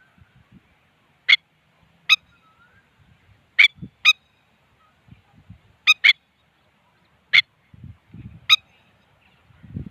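A bird giving eight short, sharp calls spaced about a second apart, twice in quick pairs.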